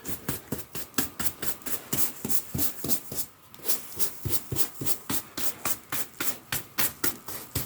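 Hand brush swept in quick strokes across carpet, pushing loose sand back into place, about four or five short scratchy strokes a second.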